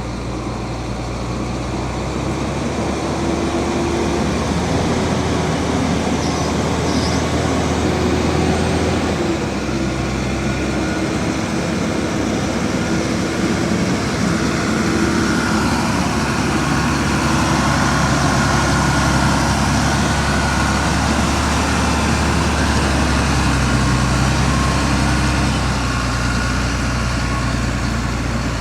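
Heavy diesel engine of earthmoving machinery running hard under load, its note shifting as the load changes about a third of the way in and again near the end.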